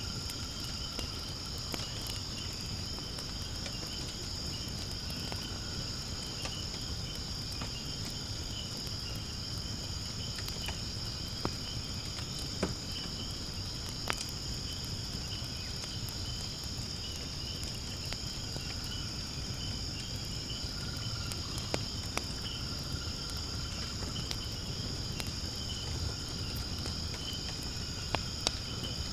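Steady insect chorus chirring, with a few sharp pops and crackles from firewood burning in a fire pit.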